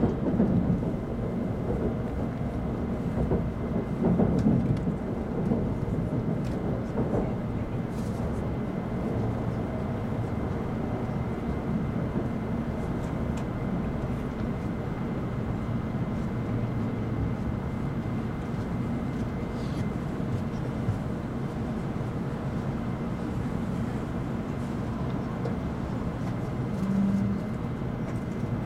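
Steady low rumble inside the passenger cabin of an N700 series Shinkansen train, with a faint thin whine held steady above it. There are a few louder swells in the first seconds.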